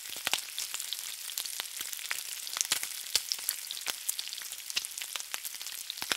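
Food frying in hot oil in a pan: a steady sizzle with frequent sharp crackles and pops.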